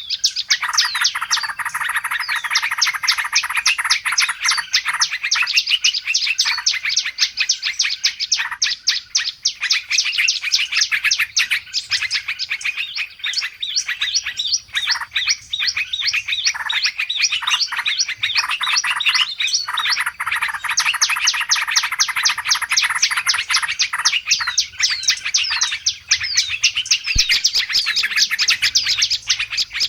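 A dense, noisy chorus of many small songbirds chirping and twittering at once, with rapid quick downward-sliding notes, as used in a bird-lure (pikat) recording to draw wild birds in.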